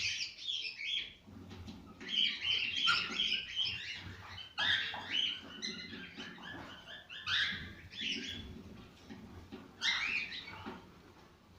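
Cockatiels singing: phrases of rapid, high chirping warbles, in about five bursts with short pauses between them.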